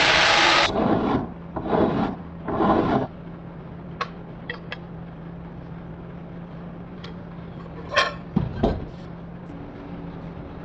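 Metalworking on the steel spring: a loud steady power-tool noise cuts off just under a second in, followed by three rasping strokes about a second apart, then a few light metallic clicks over a low steady hum.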